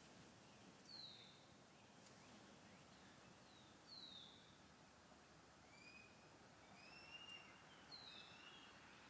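Faint, repeated high calls of small birds: several short whistles sliding downward, then shorter, flatter notes near the end, over a steady outdoor hiss.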